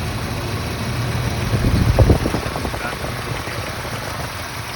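1995 Ford Ranger's four-cylinder engine idling steadily, with a brief cluster of knocks and rattles about two seconds in.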